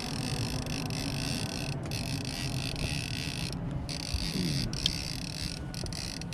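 Fishing reel's ratchet clicker buzzing as line is pulled off the spool, with a few short pauses: a fish has taken the bait and is running with it. A low rumble runs underneath.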